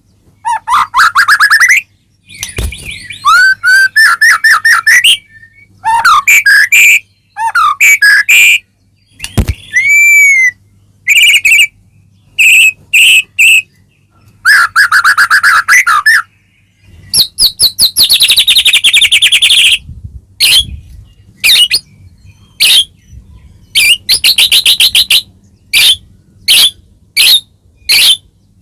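White-rumped shama (murai batu) in loud, vigorous song: a rapid series of varied phrases of fluty whistles, fast trills and rising and falling notes, with short pauses between them. In the last third the song turns into a string of short, sharp notes a little under a second apart.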